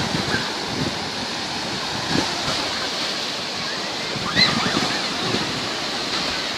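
Black Sea surf washing steadily onto a sandy beach, with some wind. A brief high-pitched cry rises above it about four and a half seconds in.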